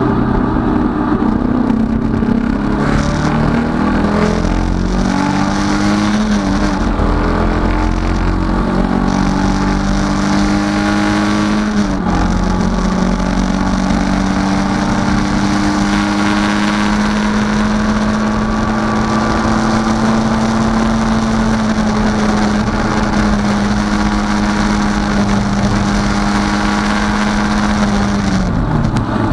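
Datsun 510 race car's four-cylinder engine heard from inside the cockpit under hard acceleration, its pitch climbing through the revs. There is a quick upshift about twelve seconds in, then a long slow climb that holds high before the revs fall away near the end.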